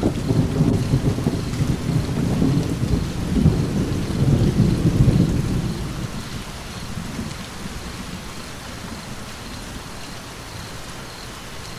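A roll of thunder breaks in suddenly over steady rain, rumbles low for about six seconds with a second swell near the middle, then fades, leaving the rain falling steadily.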